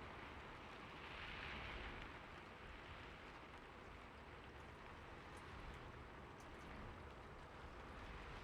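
Faint, steady light rain: an even hiss that swells a little between about one and two seconds in, with a few separate drops ticking in the second half.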